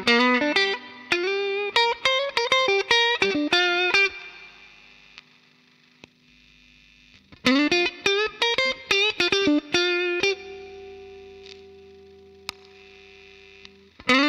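Electric guitar with distortion from a DemonFX Gravity pedal, playing two quick runs of picked single notes. Each run ends on a held note that rings out and slowly fades.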